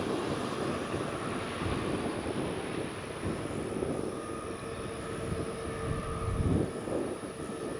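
Jet aircraft engine noise: a steady rumble, with a faint whine coming in about halfway through.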